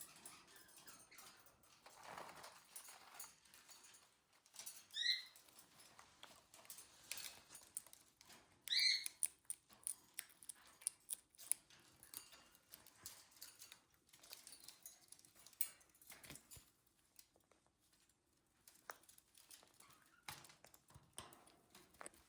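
Quaker parrots making faint scattered clicks and rustles, with two short high chirps about five and nine seconds in.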